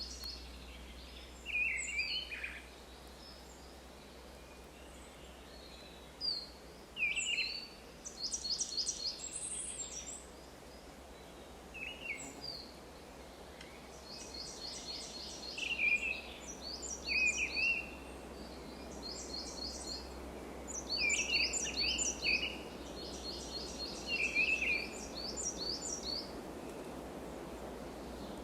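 Wild birds singing and calling: bursts of rapid, high repeated notes and short chirps every few seconds, over a steady low hum.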